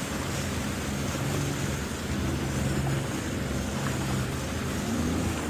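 Jet ski engine running steadily at cruising speed, a low even drone under a constant rush of wind and water.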